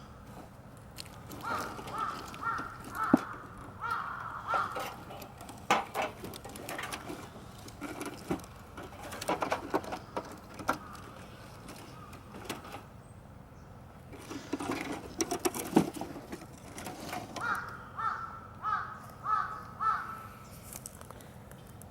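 Crows cawing in two runs of short repeated calls, one near the start and one near the end. Sharp cracks and knocks come in between.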